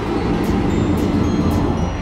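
Steady rumble of a moving passenger train heard from inside the carriage: wheels running on the rails.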